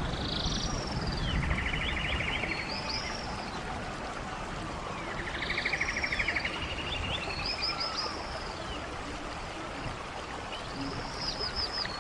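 Running stream with a steady rush of water, and birds singing over it: a song phrase of a quick trill and high arching notes comes about every five seconds, three times.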